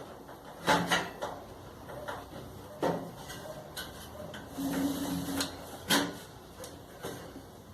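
Sharp knocks and clicks of hard parts being handled, with a brief hum a little under a second long about five seconds in.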